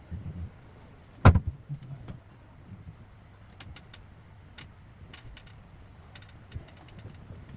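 Hand tools and metal plumbing fittings being handled: one sharp knock about a second in, then scattered light metallic clicks and taps.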